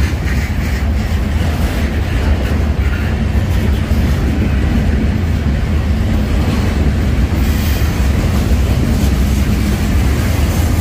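Freight train rolling past: a loud, steady rumble of wheels on rail that holds the same level throughout.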